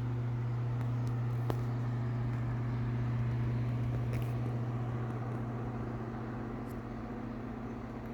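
Britânia Ventus Protect 40 electric desk fan running: a steady low motor hum under the rush of air from its blades. The loudness swells slightly and then eases off, with a few faint clicks.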